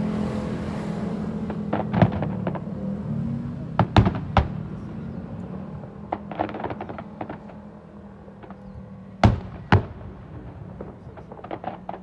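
Fireworks bursting: separate sharp booms, two close together about 4 s in and two more near 9–10 s, with bursts of lighter crackling between them. A low steady hum fades out over the first few seconds.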